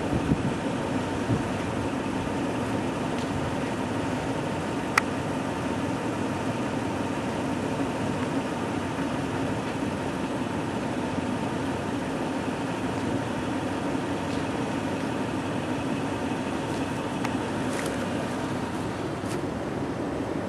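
An engine running steadily with an even hum that does not change, and one sharp click about five seconds in.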